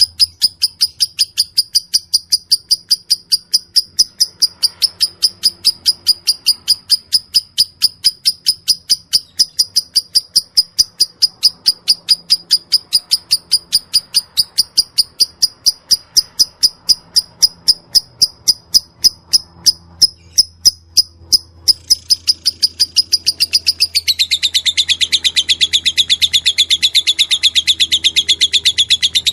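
Lovebird ngekek: a long unbroken string of short, sharp, high chirps at about four a second. Near the end it shifts to a faster, denser, slightly lower run.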